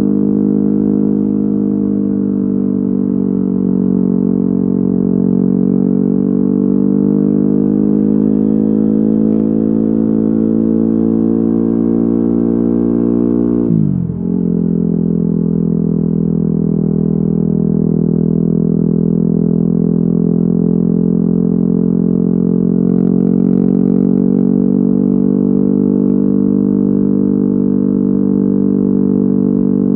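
Yamaha WR250R's single-cylinder four-stroke engine through an FMF Q4 exhaust, running at a steady cruise with the revs drifting slowly up and down. About halfway through the revs drop sharply for a moment, as on a gear change, then pick up again.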